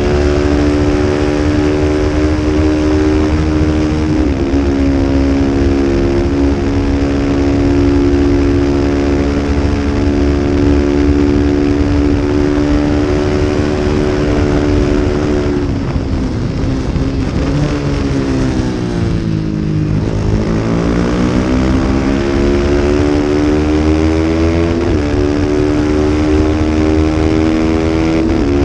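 A 250-class race motorcycle engine running hard at high revs, with brief dips at gear changes. About halfway through, the revs fall steeply as the bike brakes and downshifts for a corner, then climb again as it accelerates out. A low wind rumble sits underneath.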